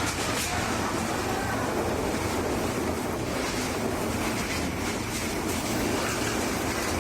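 Sea waves surging on the shore with wind buffeting the microphone, a steady rushing noise.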